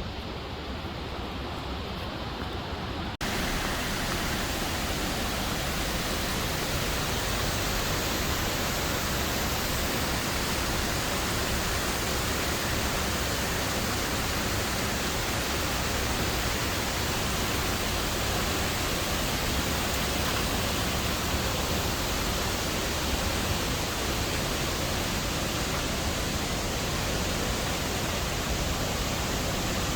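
Steady rushing noise of a waterfall's falling water, jumping abruptly louder and fuller about three seconds in.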